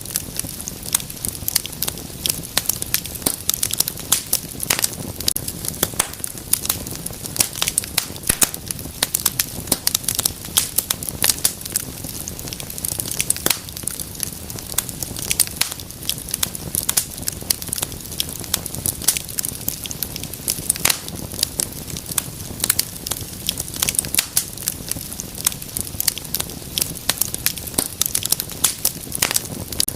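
Wood fire in a fireplace crackling steadily, with many sharp pops and snaps over a low rushing of flame.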